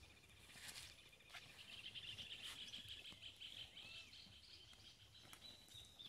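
Faint rural outdoor ambience: a high, fast pulsing trill that grows louder about a second in and holds for several seconds before stopping near the end, with a few short chirps over it.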